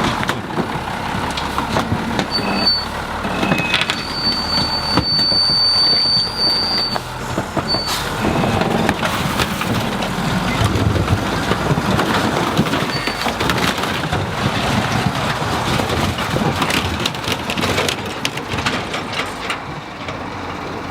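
M923 military 5-ton 6x6 truck crushing a car under its wheels, with repeated crunching and cracking of the car's body over the truck's running engine.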